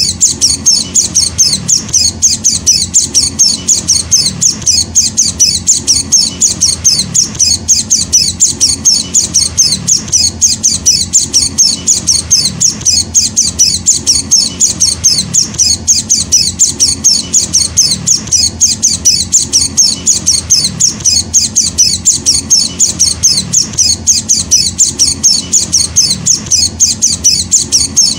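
Juvenile white-eye (Zosterops) chick calling: a rapid, steady series of high chirps with no breaks, the call of a young hand-fed bird.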